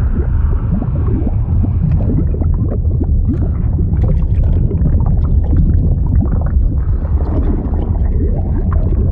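A continuous liquid sound effect: a deep, steady rumble with constant bubbling and gurgling, like water heard from underwater.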